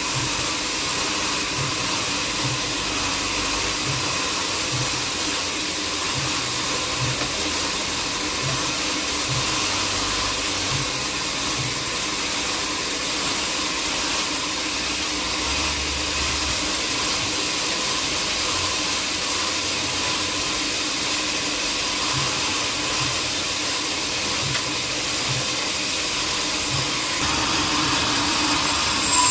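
Sawmill machinery, likely the band sawmill, running with a steady whirring hiss; the sound brightens near the end and ends with a short click.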